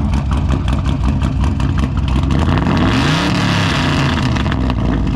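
A car's V8 engine idling with a choppy, even pulse, then revved once about three seconds in, its pitch rising and falling back to idle.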